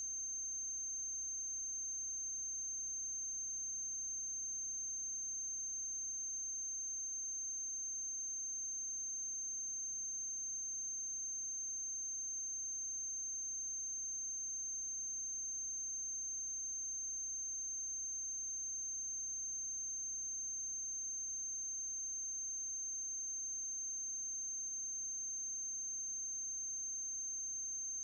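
Steady electrical hum with a steady high-pitched whine above it, unchanging throughout and with no other sound: the noise of the transfer's audio chain under silent film footage.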